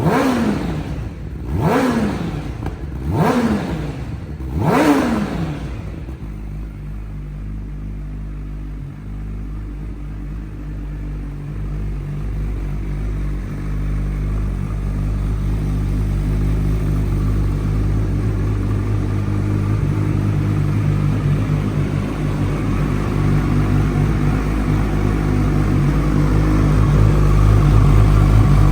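Honda CBR1000RR SP2 race bike's inline-four engine, breathing through a full titanium Akrapovic race exhaust, blipped sharply four times in the first few seconds, each rev dropping straight back, then settling to a steady idle that grows gradually louder.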